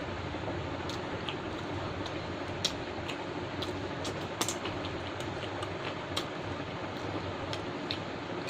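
Close-up chewing and eating mouth sounds, small irregular wet clicks and smacks several times a second, over a steady fan-like hiss.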